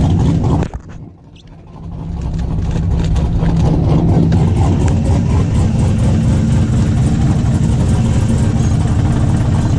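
Car engine running loud and steady. It drops away sharply just under a second in, then swells back up over the next second or so and holds.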